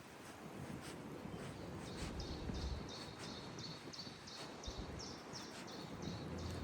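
Small songbird singing a rapid series of repeated high notes, about three a second, each a short downward slur, starting about two seconds in, over a steady city background hum.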